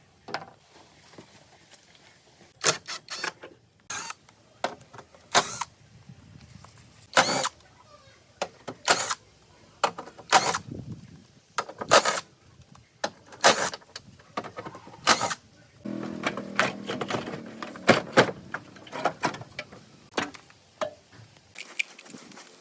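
Irregular sharp knocks and clinks of tools and metal parts being handled, about a dozen spread a second or two apart, some ringing briefly. A short low hum comes in about two-thirds of the way through.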